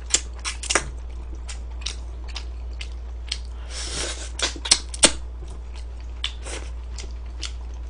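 Close-up eating sounds: biting and chewing food, with irregular sharp clicks and the clink of metal serving tongs, over a steady low hum.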